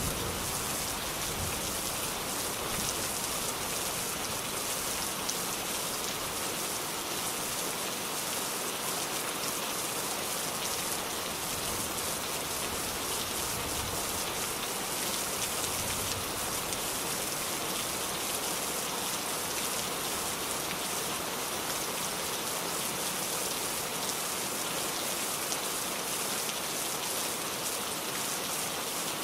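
Steady rain falling on a surface, an even hiss with the patter of individual drops.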